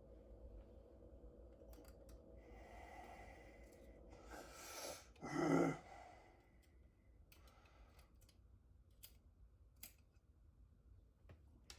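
A person's long, heavy exhaled sigh about five seconds in, the loudest sound, over faint scattered clicks of hand tools on small metal parts.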